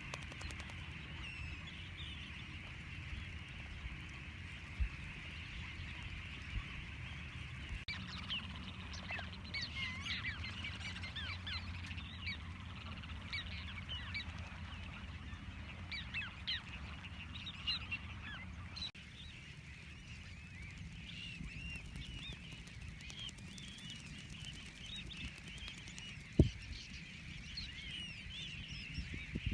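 A flock of birds calling continuously, many short overlapping calls over a steady low rumble, with a single sharp knock near the end.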